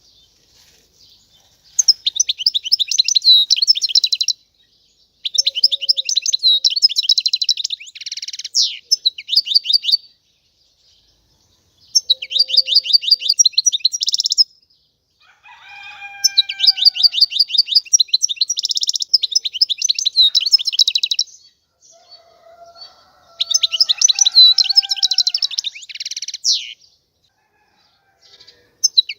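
European goldfinch singing in bouts of rapid, high, buzzy trilled phrases, each a couple of seconds long with short pauses between. A few lower, falling whistled notes come in around the middle and again later.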